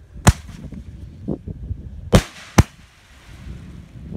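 4- and 5-inch canister firework shells going off overhead: three sharp bangs, one just after the start and two in quick succession about two seconds in, with a faint rumble between.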